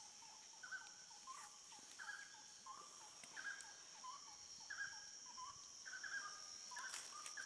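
Faint repeated short calls from a small animal, about one to two a second, each dipping in pitch, over the steady high-pitched buzz of insects.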